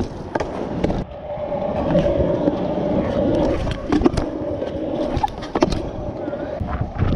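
Stunt scooter wheels rolling over hard ground with a steady hum, broken by several sharp clacks of the deck and wheels hitting down.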